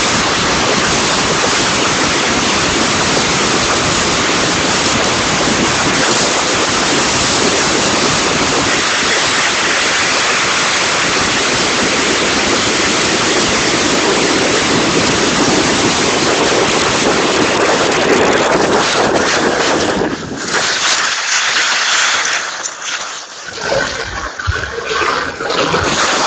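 Typhoon wind and rain buffeting a phone microphone: a loud, steady rush that breaks into uneven gusts and lulls about twenty seconds in.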